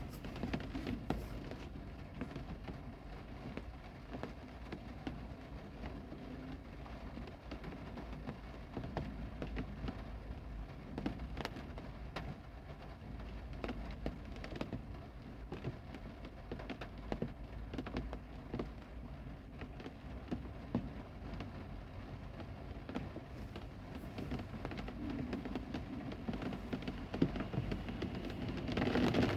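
Heavy rain falling steadily, with many sharp drops and drips striking a nearby surface, growing louder near the end.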